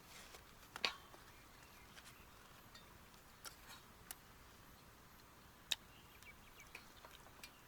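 A few faint, scattered clicks and clinks of cutlery against a plate during a meal, over near silence.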